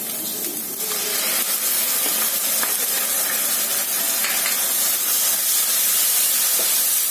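Onion, garlic and ginger-chilli masala sizzling in hot oil in a non-stick wok, the oil already separated from the paste. The sizzle grows louder about a second in as tomato paste goes into the pan, then holds steady while a wooden spatula stirs it with occasional light scrapes.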